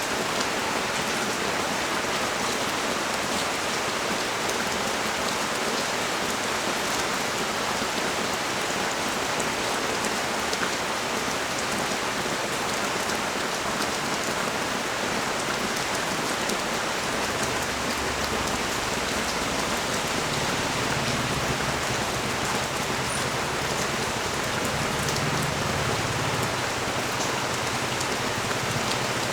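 Rain falling steadily on a street and nearby surfaces: a dense, even hiss of drops. A low rumble rises and fades over several seconds in the second half.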